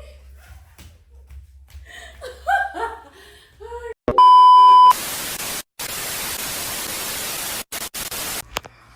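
A person's voice, then about four seconds in a loud, steady censor bleep lasting under a second, followed by a few seconds of harsh static hiss that drops out briefly a couple of times before stopping.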